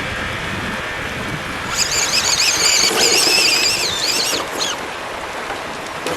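Continuous splashing, water-like noise, with a high-pitched whine that warbles up and down for about two and a half seconds, starting a couple of seconds in, typical of a scale RC 4x4 truck's electric motor working through water and mud.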